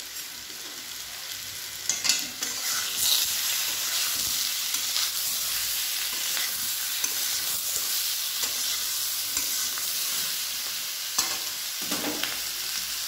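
Pumpkin and potato pieces sizzling in oil in a metal kadai while a flat metal spatula stirs them, with a steady hiss and a few sharp scrapes and knocks of the spatula on the pan, about two seconds in and again near the end.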